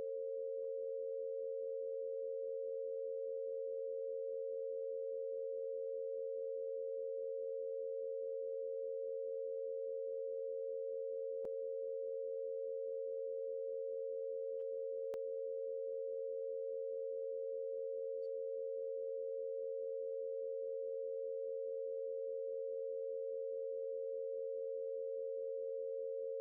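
Two steady pure sine tones sounding together, a minor third of the Harmonics of Nature tuning: the 460.8 Hz B-flat root and the C-sharp near 546 Hz. Their level does not change.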